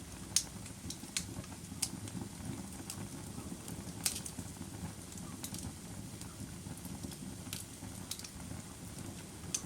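Wood fire crackling: irregular sharp pops and snaps, about one or two a second, over a steady low rumble of the burning.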